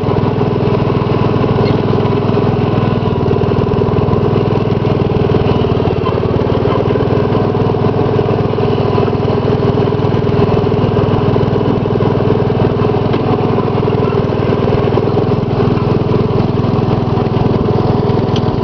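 Gravely 810 garden tractor's 10-horsepower Kohler cast-iron single-cylinder engine running at a steady speed.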